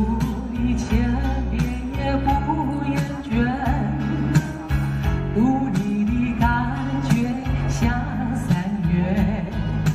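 Live band music: a voice singing over guitar and bass accompaniment, with a steady beat.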